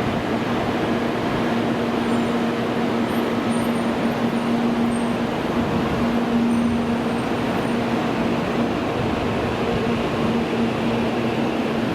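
Steady rumble and hum of Shinkansen platform noise, with a constant low drone and no rise or fall in level.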